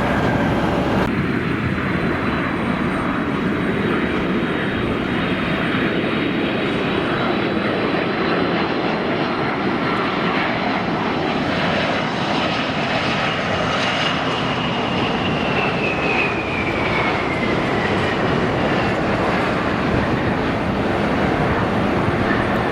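Airliner engines running loud and steady at close range, with a whine that falls in pitch over several seconds in the second half as the aircraft passes.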